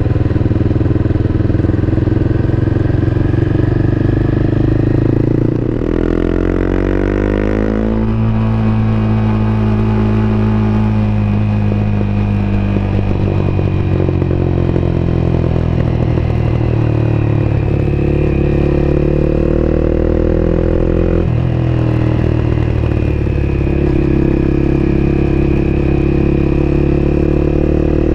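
Honda CBR250R's single-cylinder engine running on the move, heard from on board. The engine note shifts suddenly and rises around six seconds in, eases off gradually, then steps again with a gear change around 21 seconds before slowly climbing.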